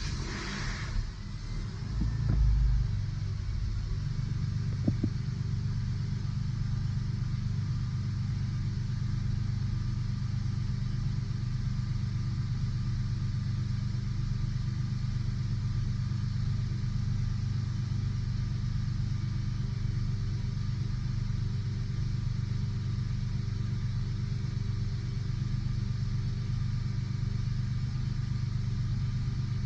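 Porsche 996's flat-six engine catching on a cold start, its revs flaring up for the first few seconds and then settling into a steady idle. A single sharp click sounds about five seconds in.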